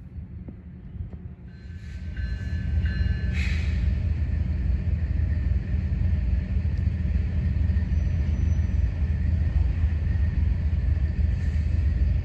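Train rumbling past, growing louder about two seconds in and then holding steady, with a few short high tones near the start.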